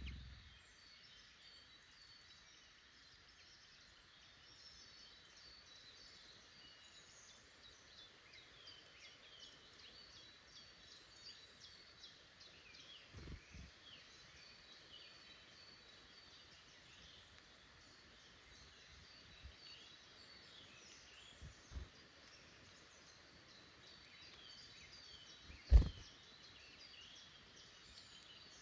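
Woodland birdsong: many small birds chirping and singing over a faint steady hiss. A few low thumps sound through it, the loudest a single sharp knock near the end.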